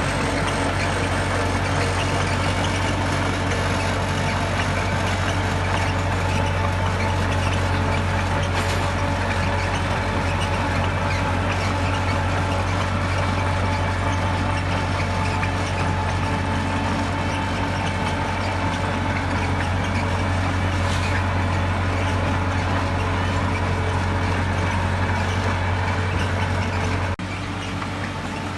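Heavy diesel earthmoving machinery running steadily: a deep engine drone with a constant whine over it. About a second and a half before the end the drone cuts off abruptly, and a quieter engine sound takes over.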